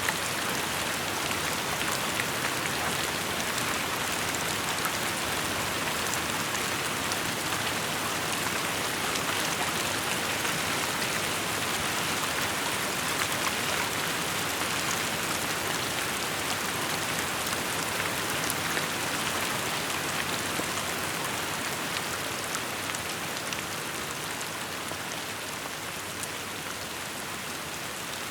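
Steady rainfall, a continuous hiss of rain on surfaces with scattered individual drops ticking through it, easing slightly in level near the end.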